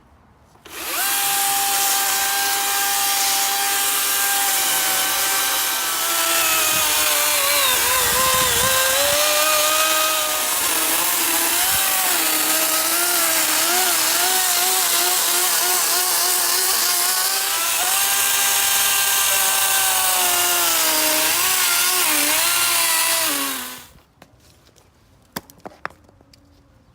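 DeWalt FlexVolt 60V brushless cordless chainsaw spinning up about a second in and running with a steady electric whine. Its pitch sags and wavers for several seconds as the chain cuts through wet, green camphor wood, then rises back to free-running speed. The saw stops a few seconds before the end, leaving a few faint clicks.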